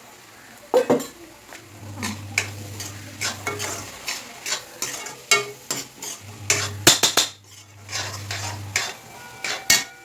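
A spoon stirring and scraping a pan of sizzling onion-tomato masala, with repeated irregular clinks against the pan as the coriander powder is mixed in.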